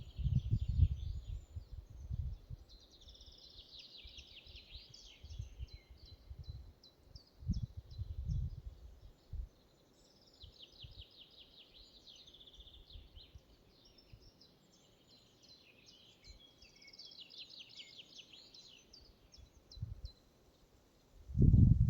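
Songbirds singing in a forest: repeated rapid trills and chirps. Low, irregular rumbles come and go underneath, strongest near the start and again about eight seconds in.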